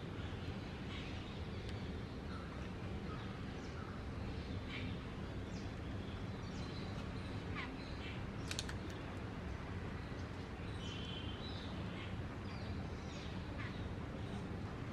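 Babblers and other small birds calling: short scattered chirps and harsh, crow-like notes, over a steady low background hum.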